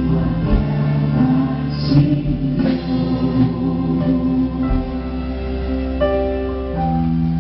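A large group singing a slow, hymn-like song in unison over instrumental accompaniment, with long held notes.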